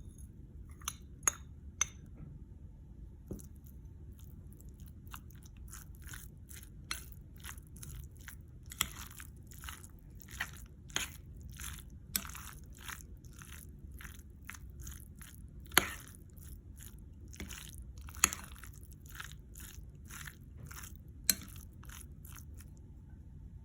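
Close-up crunching of crisp food being chewed, a steady run of short crunches about two a second, with a few sharper, louder clicks, over a low steady hum.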